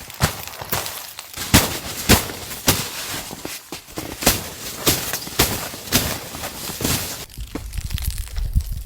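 Footsteps crunching through snow at a steady pace of about two a second, stopping about seven seconds in, when a low rumble takes over.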